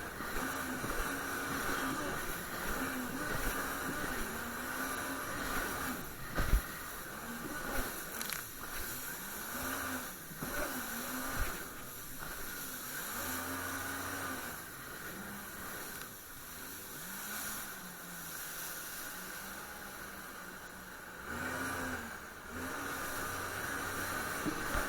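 Jet ski engine running under way. Its pitch rises and falls again and again as the throttle is opened and eased, over a steady rushing hiss. A single sharp knock comes about six and a half seconds in.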